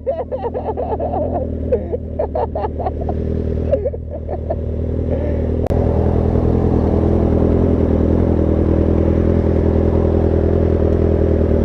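Motorcycle engine running steadily, louder and smoother after a sudden click about six seconds in.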